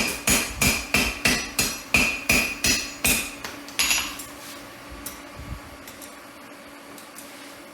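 Hammer striking hot steel on an anvil, about three ringing blows a second, stopping with a last blow about four seconds in. After that a steady low hum remains.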